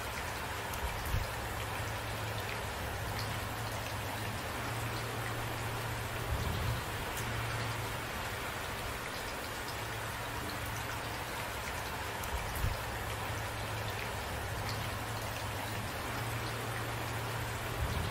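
Steady rain falling, an even hiss of drops, with a few brief low thumps.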